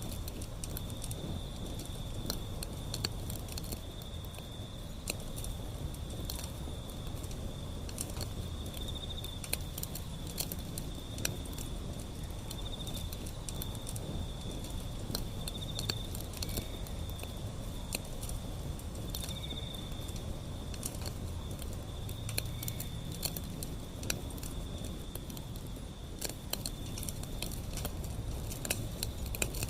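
Wood fire burning, with many sharp irregular crackles and pops over a low rumble of flames. A steady high-pitched insect trill, swelling now and then, runs behind it.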